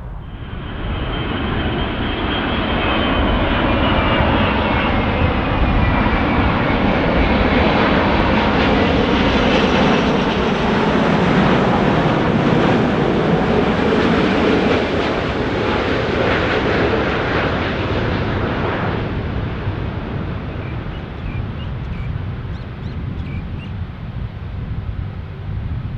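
Airbus A380's four jet engines passing close by on landing: a loud jet roar that swells over the first few seconds, with high engine whines gliding down in pitch as it passes. About three quarters of the way through the roar drops away sharply, leaving a quieter rumble.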